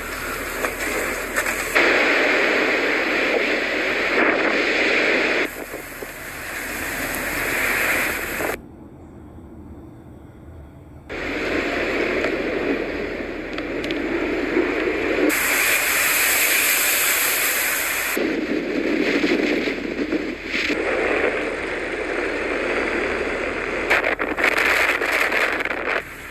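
Blizzard wind rushing and buffeting the microphone as a rough, crackling noise, its loudness jumping abruptly every few seconds between separate clips.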